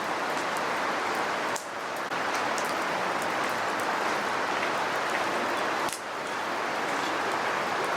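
Campfire burning with a steady hiss and scattered sharp crackles and pops.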